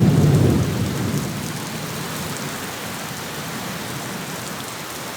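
Steady rain with a low thunder rumble that fades out over the first second or so.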